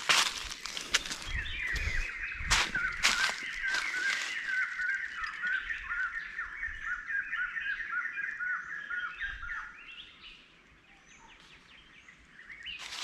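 A bird sings a long run of quick repeated notes for about eight seconds. Footsteps crunch through dry leaf litter in the first few seconds and start again at the end.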